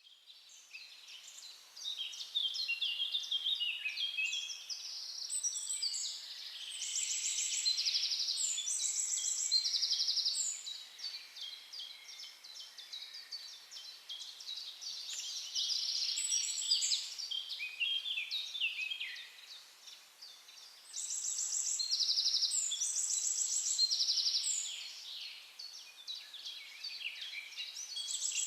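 Several songbirds singing at once: overlapping high chirps, whistled phrases and fast trills that swell and fade in bouts of several seconds.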